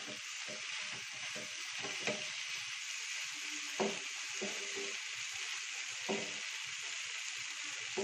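Soya chunks in a coconut-milk masala sizzling in a non-stick pan over a raised flame as the liquid cooks off, stirred with a spatula. There are three sharper scrapes of the spatula against the pan.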